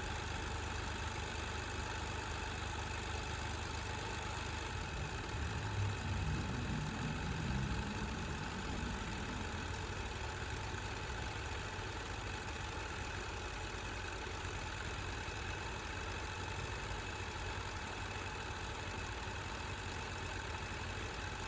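Car engine idling steadily, with a brief swell in the low rumble about six seconds in.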